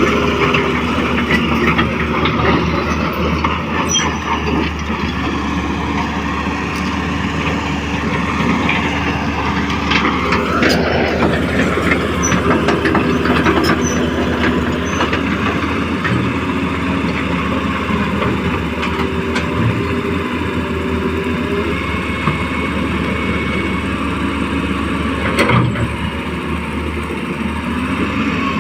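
Radio-controlled model excavator's electric motors whining as it digs, the pitch stepping up and down with the load. About ten seconds in, one motor's whine rises sharply, with scattered clicks and knocks from the working parts.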